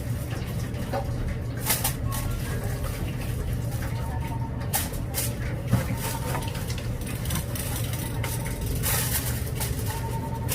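Busy street-stall background: a steady low hum with faint voices and a few short clicks and knocks.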